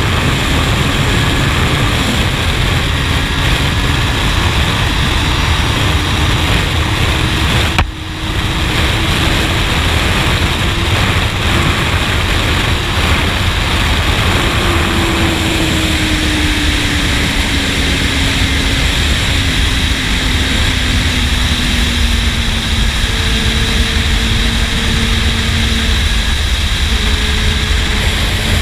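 Honda CBR600 sport bike's inline-four engine running under way through a slip-on exhaust, under heavy wind rush. There is a brief drop in sound about eight seconds in. From about halfway through, the engine note slowly falls in pitch.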